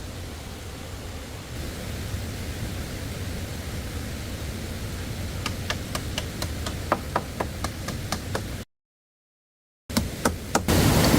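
Steady rush of running stream water, joined a little past halfway by a run of sharp knocks about three a second, like blade or wood strikes on bamboo. The sound cuts out completely for about a second, then a few more knocks follow and the water grows louder near the end.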